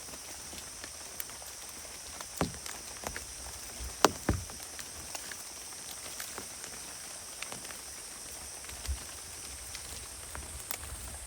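Steady rain hiss with scattered drops pattering, broken by a few sharp knocks, the loudest about four seconds in.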